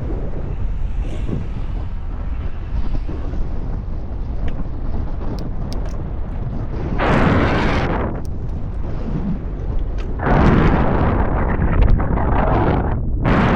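Wind rumbling on the microphone of a moving bicycle rider, with louder rushing surges about seven seconds in and again from about ten seconds in.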